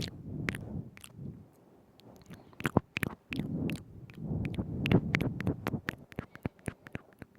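Mouth sounds right at the microphone: rapid wet clicks of tongue and lips, irregularly spaced, over soft low squelching.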